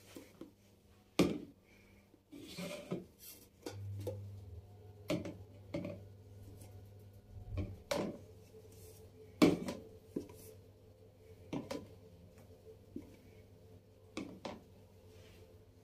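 Intermittent knocks and light clatter of containers and kitchen items being handled and set down on cupboard shelves, about a dozen separate strikes with the loudest near a second in and about nine seconds in, over a faint low hum.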